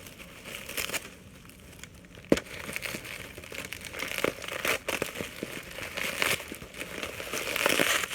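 Plastic packaging crinkling and rustling as it is handled and pulled off a potted plant, with one sharp snap a little over two seconds in.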